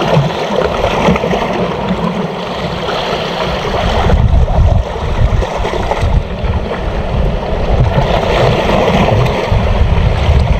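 Seawater washing and gurgling around shore rocks, with wind rumbling in gusts on the microphone.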